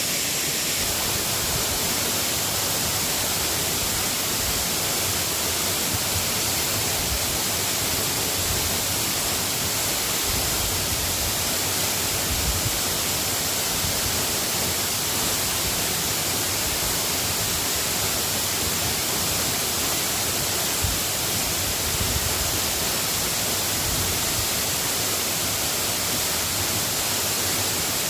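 Steady hiss of falling rain, even and unbroken, with a few faint low taps.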